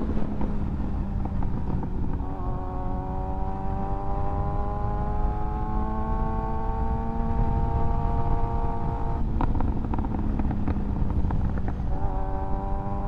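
2024 Kawasaki ZX-6R's inline-four engine under way, its note climbing slowly as it pulls, over heavy wind rush on the mic. About nine seconds in the engine note breaks off with a few clicks, then returns lower and rises again near the end.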